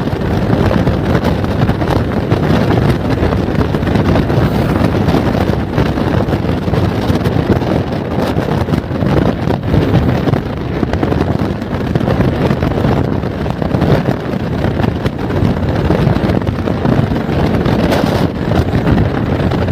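Steady wind buffeting the microphone over the running engine and road noise of a motorcycle being ridden.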